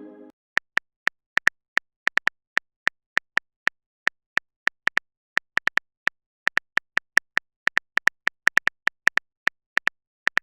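Phone-keyboard typing sound effect: a run of short, uneven clicks, several a second, each with the same bright tick.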